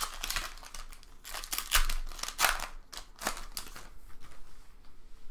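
Foil wrapper of a trading card pack crinkling and rustling in a series of short, irregular bursts as the pack is opened and handled, loudest in the middle.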